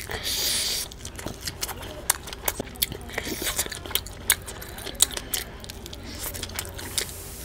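Close-miked eating: biting and chewing crispy fried fish and rice, with many sharp crunches and wet mouth clicks. A louder noisy burst lasting about half a second comes just after the start.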